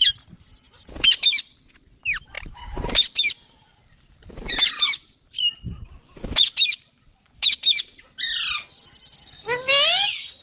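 Green parrot squawking in short, sharp, high-pitched calls about once a second, with a longer, louder call near the end.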